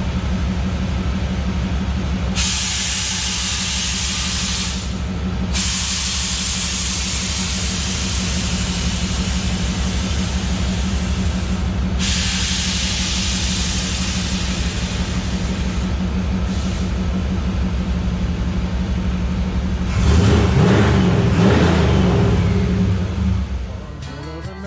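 Vehicle engine running with a steady low rumble, over a hiss that comes and goes several times; it gets louder for a couple of seconds near the end.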